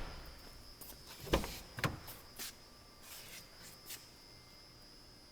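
Car door being handled: two knocks about a second and a half in, then a few lighter clicks, over a faint steady high whine.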